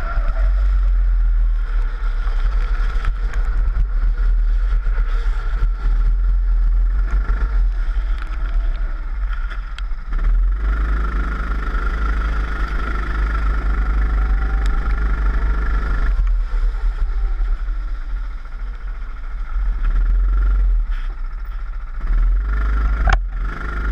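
Four-stroke rental kart engine running, its pitch rising and falling with the throttle, heard onboard through heavy low wind and vibration rumble on the camera.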